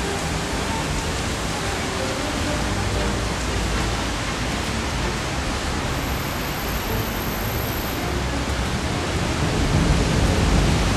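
Steady rain falling, a dense even hiss that grows slightly louder near the end.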